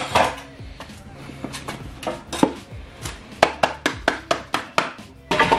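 A series of sharp knocks: a few spaced out, then a quick run of about ten, roughly five a second, near the end.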